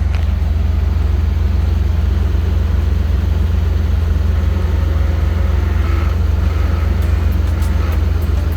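Truck engine idling steadily with a deep, even low rumble, with a few faint ticks near the end.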